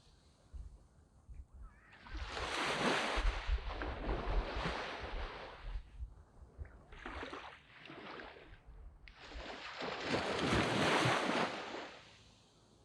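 Surf on a sandy beach: waves break and wash up the sand in three surges, the first about two seconds in, a shorter one near the middle, and a longer one near the end, with quieter lulls between.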